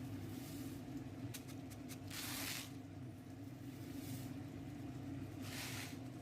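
Pan cooking on a stove: a steady low hum, with three short bursts of noise as food is stirred in the pan, and a few light clicks.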